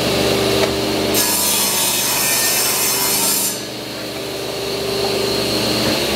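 Table saw running, its blade ripping through a melamine board for about two seconds starting about a second in, then spinning free.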